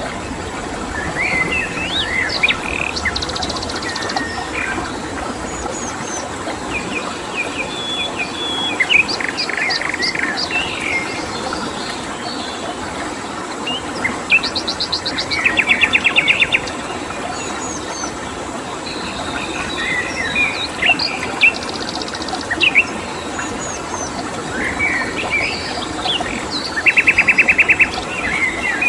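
Several songbirds chirping and calling over a steady rush of flowing water, with a cricket's thin high trill behind. Rapid rattling trills of evenly repeated notes stand out twice, about fifteen seconds in and near the end, and are the loudest calls.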